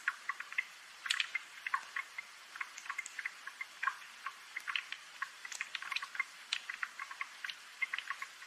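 Rain dripping: many small, irregular droplet ticks over a faint hiss.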